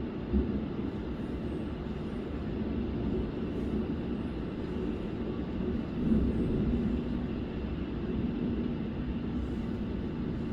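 Rolling thunder: a long, low, continuous rumble that swells a little about six seconds in.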